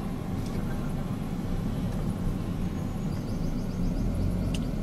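Car engine running at idle, a steady low rumble heard from inside the cabin. A brief run of rapid faint high ticks comes about three seconds in, and a single sharp click near the end.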